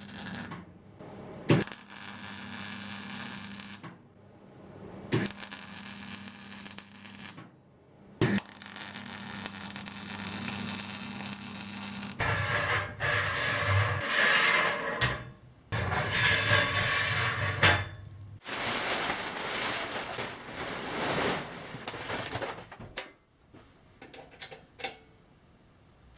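Electric metalworking tools in use on steel. There are three bursts of a few seconds each with short pauses between them, over a steady electrical hum. A longer, rougher stretch of tool work follows, and a few sharp metallic clicks come near the end.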